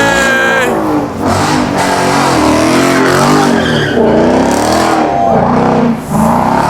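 Car engine at a meet being revved hard, its pitch rising and falling about once a second, over a steady hiss of tyre noise.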